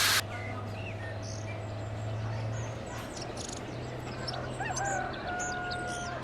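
A loud hiss cuts off right at the start. Then a rooster crows and small birds chirp over a steady low hum, with the crow rising and then holding a long steady note near the end.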